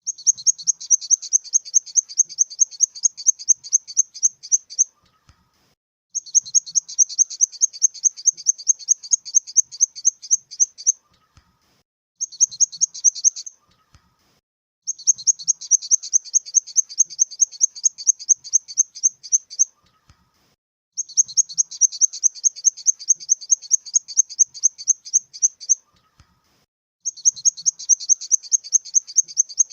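Grasshopper stridulating: high-pitched, rapid trains of raspy pulses in bouts of about four to five seconds, each followed by a pause of about a second, repeating regularly.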